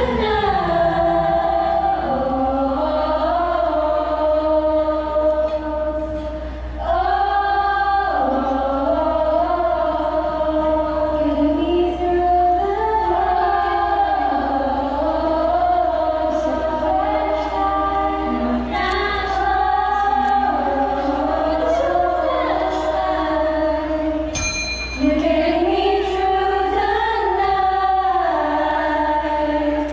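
A choir singing in harmony, holding long notes, with a steady low hum underneath.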